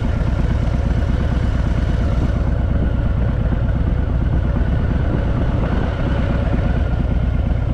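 Harley-Davidson Fat Boy's V-twin engine running steadily at low revs, with a fast, even low rumble.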